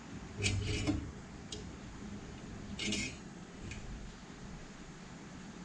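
A few light metallic clinks and taps as a Park Tool DT-2 truing fork works a bicycle's bent steel disc brake rotor straight, the biggest cluster about half a second in and another around three seconds in.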